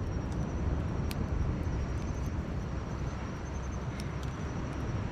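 Campfire with a few sharp crackles over a steady low rumble, and a faint high trill running behind it.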